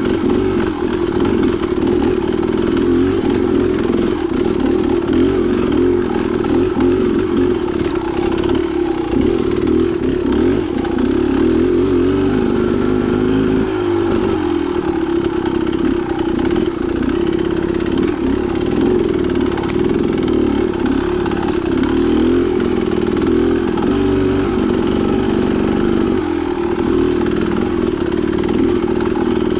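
Dirt bike engine running continuously on a trail ride, its pitch wavering up and down as the throttle is worked.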